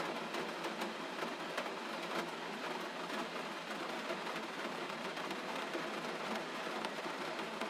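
Gentle rain falling steadily: an even hiss of rain with many small, scattered drop ticks.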